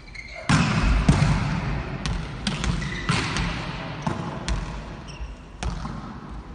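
Volleyballs being hit and bouncing on a gym floor during team practice: irregular sharp slaps and thuds, several a few tenths of a second to a second apart, over a steady background of hall noise.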